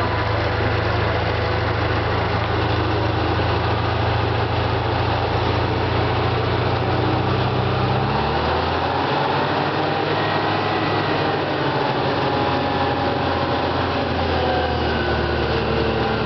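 Fire engine's engine running as the truck drives along, with road noise; about halfway through the engine note climbs as it speeds up.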